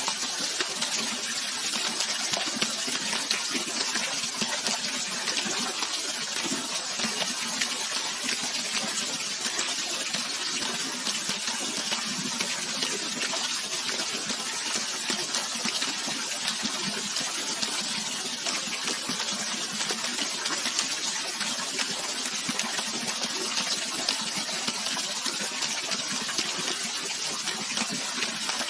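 Steady rushing water, a continuous even hiss with no breaks.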